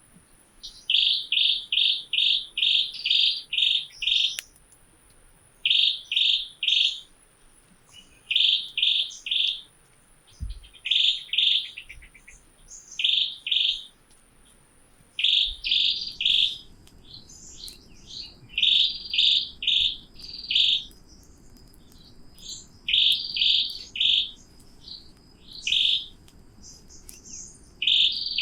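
A bird calling in runs of quick, sharp chirps, a handful of notes at a time, repeated every second or two.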